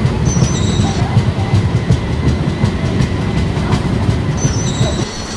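Passenger train coaches passing close at speed: a heavy wheel rumble with steady clickety-clack over the rail joints. Wheels squeal thinly on the sharp curve briefly near the start and again near the end. The rumble drops off suddenly just before the end.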